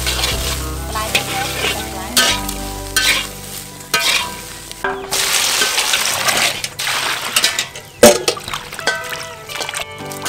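Food sizzling in a hot pan while being stirred, the sizzle surging in repeated waves, with one sharp knock of a utensil against the pan about eight seconds in.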